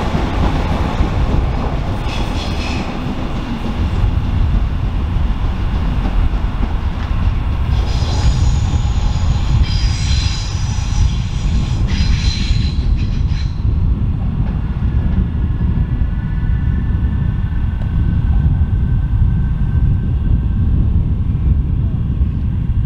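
SNCB classic 1960s electric multiple unit departing over pointwork with a steady low rumble. Several short bursts of high-pitched wheel squeal come in the first half as it curves through the points.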